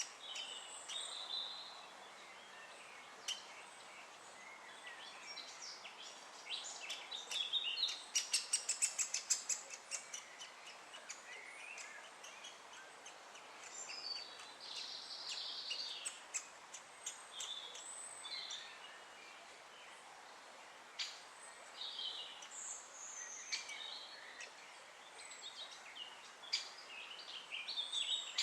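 Birds calling and chirping in short, scattered calls, with a fast, loud run of sharp notes, about four or five a second, from about seven and a half seconds in to about ten seconds.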